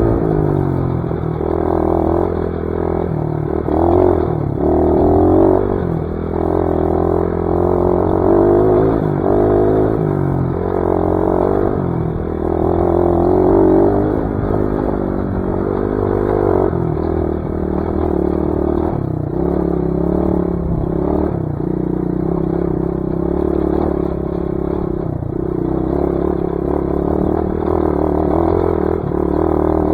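Dirt bike engine running under load on a trail, its revs rising and falling again and again with the throttle and gear changes.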